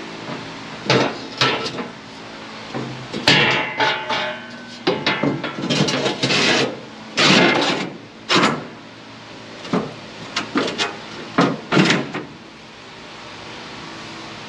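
Irregular metal clanks, knocks and scraping as steel floor plates are handled and worked into a combine's feeder house, dying away about twelve seconds in and leaving a steady faint hum.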